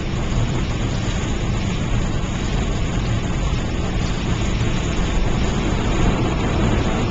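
Steady road and engine rumble inside a moving car's cabin, with hail, snow and rain striking the car.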